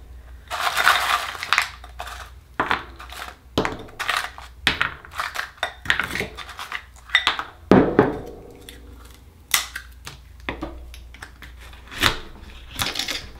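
Akoya oyster shells being handled and pried open with a metal tool: a scraping grind of shell early on, then scattered sharp clicks, knocks and clatters of shell and metal, the loudest knocks about 8 and 12 seconds in.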